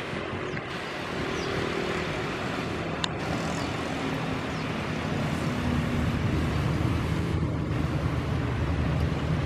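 Jet airliner's engines on approach: a steady rushing noise with a faint tonal hum that slowly grows louder toward the end.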